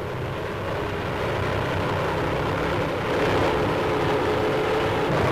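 Steady drone of aircraft engines over the hiss of an old film soundtrack, growing a little louder about three seconds in.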